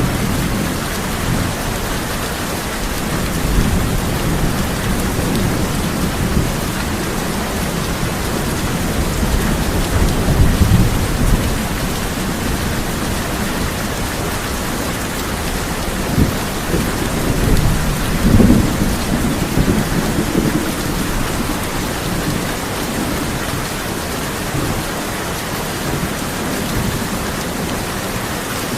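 Steady heavy rain drumming on a tin roof, with thunder rumbling low and swelling about ten seconds in and again from about sixteen to twenty seconds in.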